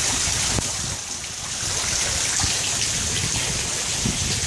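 Heavy rain falling, with water splashing and trickling. It eases briefly about a second in.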